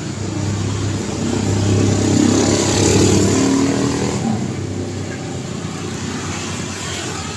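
Road traffic with one motor vehicle passing close by, its engine and tyre noise swelling to a peak about three seconds in and then fading.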